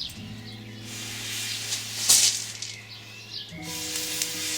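Breath blown through a telescopic campfire blowpipe onto glowing embers: a rushing hiss of air that swells to its loudest about two seconds in. Under it, steady background music chords that change about three and a half seconds in.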